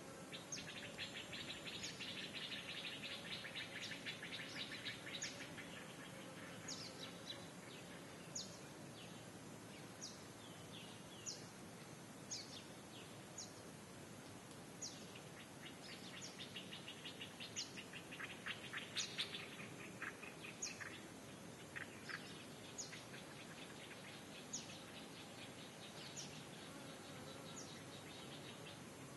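Faint bird calls: a short, high, falling note repeated about every second and a half. Rapid trills join in near the start and again in the middle.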